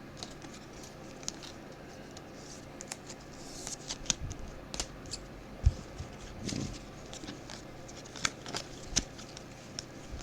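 Football trading cards being handled and flipped through at a table: scattered light clicks, taps and scratching of card stock.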